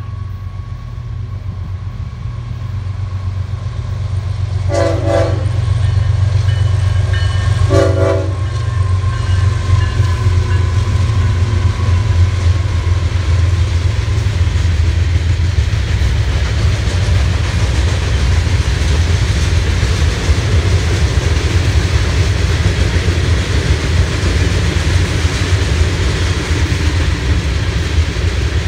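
Florida East Coast Railway freight train passing: the diesel locomotives rumble louder as they approach and sound two short horn blasts about five and eight seconds in. After that a long string of hopper cars rolls by with steady wheel noise on the rails.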